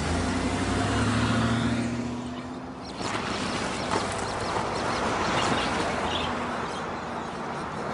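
A motor vehicle's engine running steadily, cut off abruptly about three seconds in and replaced by a steady outdoor noise haze.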